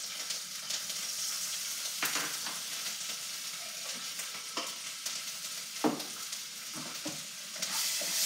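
Minced garlic and ginger sizzling in hot oil in a wok while being stirred, with a few sharp knocks of the utensil against the pan. The sizzle grows louder near the end.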